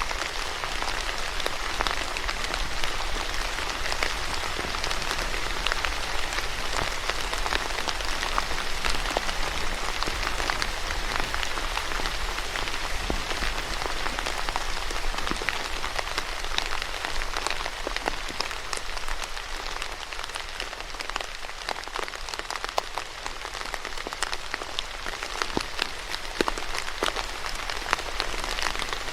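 Steady rain falling, with many close drops pattering and ticking on a hard surface.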